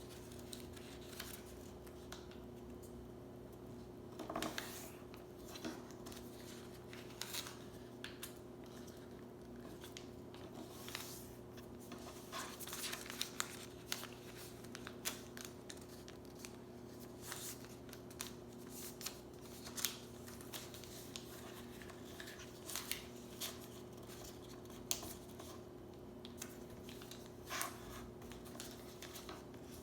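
A sheet of paper being folded and creased by hand: irregular short rustles and scrapes.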